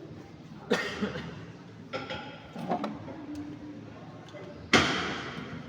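Metal knocks and clanks from a Toyota Avanza's brake drum being fitted back over the hub: a few sharp knocks in the first three seconds, then a loudest clank near the end that rings and fades.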